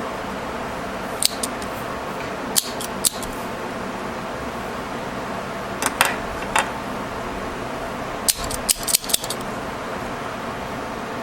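Metal staple remover clicking and clinking as it is handled and its jaws are worked, in scattered single clicks and a quick run of several near the end, over a steady hum.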